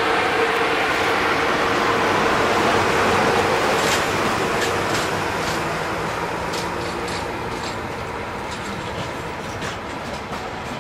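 Pair of Class 5E1 electric locomotives passing slowly at close range with a steady hum. About four seconds in, the train's coaches roll by with their wheels clicking over rail joints, and the sound fades gradually.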